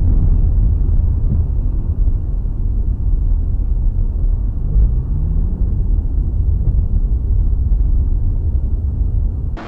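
Heavy low rumble of a vehicle's engine and road noise while driving, with an engine note rising briefly about halfway through. It cuts off abruptly near the end.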